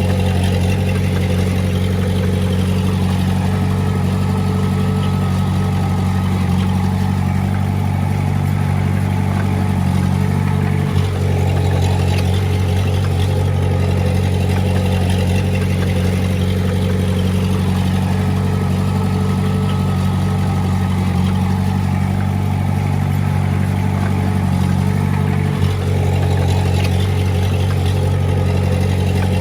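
Heavy machine's diesel engine running steadily, with two brief dips in sound about eleven seconds in and near the end.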